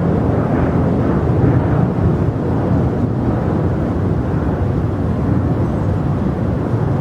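Jet airliner engines producing a loud, steady rumble that eases slightly toward the end.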